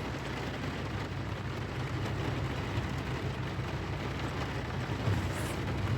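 A truck's engine running steadily at low speed in four-wheel drive while it is manoeuvred in mud, with a steady hiss of rain over it.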